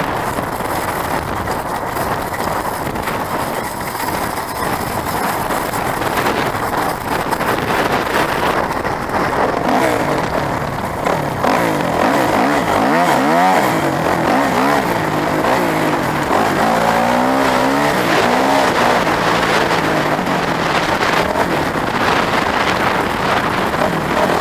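Dirt bike engines running under a steady rushing noise. About halfway through, an engine revs up and down several times, its pitch rising and falling.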